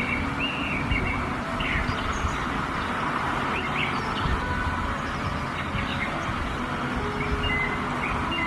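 Birds chirping, scattered short calls over a steady low rumble.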